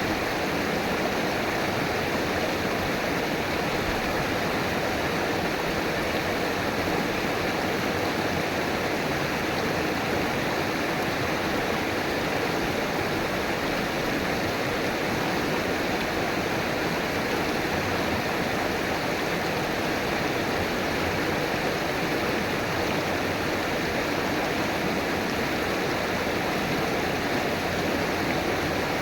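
River water flowing and rushing steadily, an even splashing hiss with no breaks or changes.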